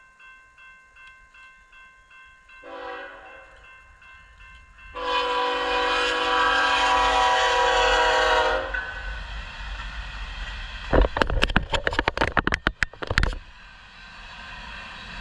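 Freight locomotive horn sounding a short blast and then a long blast, the end of the grade-crossing signal, over a rumbling freight train. A crossing bell dings steadily at the start, and a burst of sharp metallic clattering comes near the end as the train passes.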